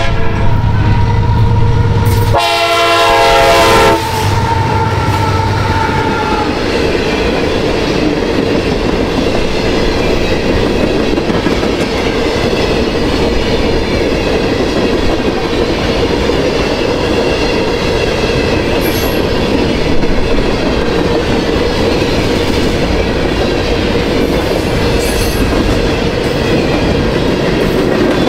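A train horn sounds in the first few seconds, several notes together, with the loudest blast ending about four seconds in. A passing train's wheels on the rails then make a steady rumbling noise.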